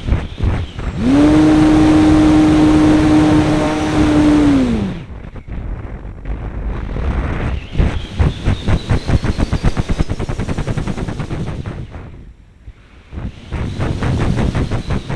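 RC airplane's motor and propeller running at full power with a steady drone for about four seconds, then throttled back with a falling pitch. The rest is rapid fluttering of airflow over the on-board microphone, with a faint rising whine in the middle.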